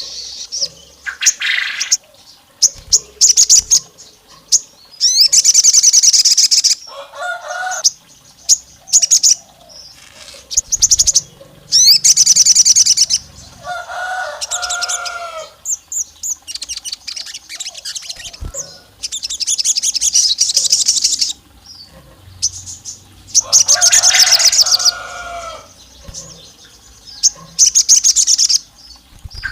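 Sogon songbird singing: loud, fast trilled phrases repeated every few seconds, with short sharp chips in between. Per the recording's title, the song is like a female calling a male and is meant to provoke rival males.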